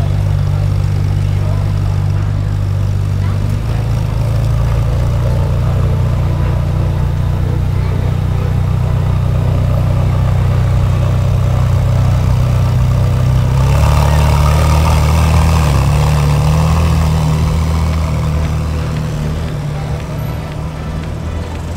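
Ferrari 458 Speciale's naturally aspirated V8 idling steadily, then pulling away with a louder swell of engine sound about 14 seconds in, fading as the car moves off.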